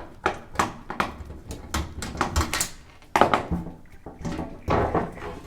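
Irregular clicks, knocks and clatters of the washer's lower front access panel being worked loose and slid off, with a few louder knocks about three seconds in and near the end.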